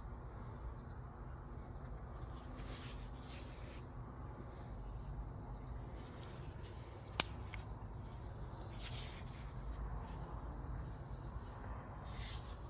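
A cricket chirping steadily, short high chirps repeating at an even pace, with faint handling rustles and one sharp click about seven seconds in.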